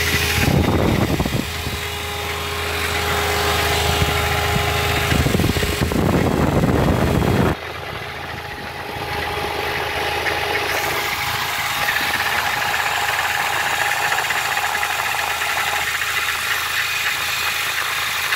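A 2004 Mini Cooper's engine idles with the radiator fan running, heard from underneath at the manual transmission. This is where a noise is heard that goes away when the clutch is pressed, which the mechanic suspects is a bearing or the third-gear synchronizer. A steady hum drops away suddenly about seven and a half seconds in, and there is rustling handling noise before it.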